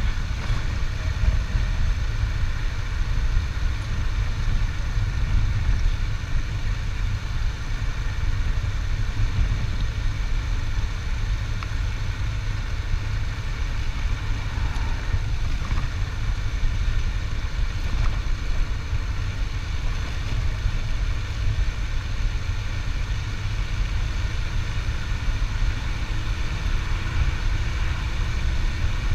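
Motorcycle engine running steadily on the move, a constant low rumble with a faint drone above it.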